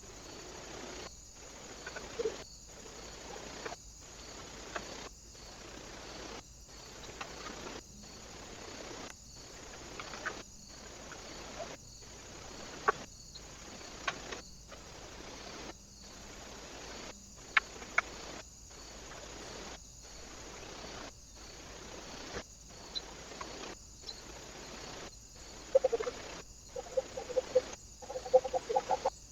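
Steady camera hiss that cuts out briefly about once a second, with scattered small clicks. Near the end comes a run of short, repeated clucking calls from a bird.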